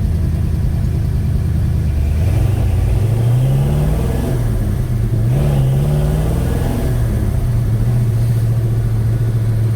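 1956 Chevy Bel Air's 307 small-block V8 driving the car: the engine note climbs about three seconds in, dips briefly, climbs again, then eases off and holds steady at a lower speed. Its valve train is noisy, sounding like a sewing machine or a diesel, which was later traced to mismatched valve springs and retainers.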